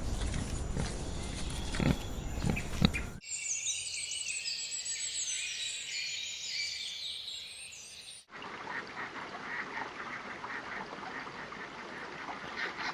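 Separate farm-animal recordings cut together: about 3 s in, a brood of ducklings peeping, many high chirps that slide downward and overlap, for about five seconds. It cuts abruptly to another farm-animal recording made of rapid, short, repeated sounds.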